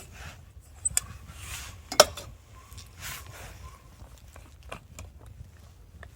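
Camp coffee gear being handled: scattered light clicks and clatter, with one sharp click about two seconds in, over a steady low rumble.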